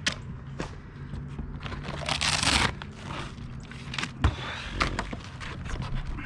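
Hand demolition work on an RV roof: scattered knocks and clicks, with a louder scrape lasting under a second about two seconds in.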